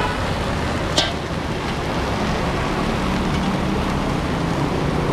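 Steady road noise of a vehicle on the move: a low engine hum under even tyre and wind noise, with one sharp click about a second in.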